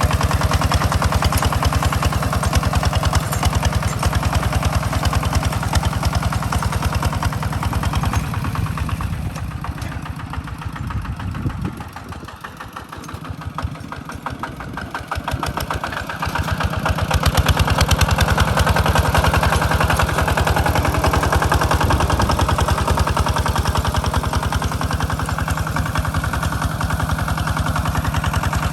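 Walk-behind tractor engine running with a rapid, even chug under plowing load in a rice paddy. It drops away for several seconds about halfway through, then comes back up and runs steadily again.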